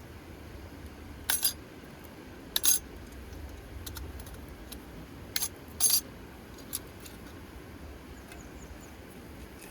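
Small metal objects jingling and clinking in four short rattles over about five seconds, with a fainter click soon after, above a steady low outdoor rumble.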